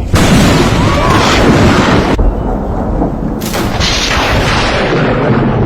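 Thunder from a close lightning strike: a sudden, very loud crack just after the start, running on as a loud rolling rumble.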